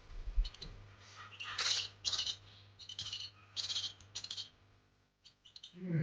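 Barn owlets giving a series of about five short hissing rasps, with a few clicks.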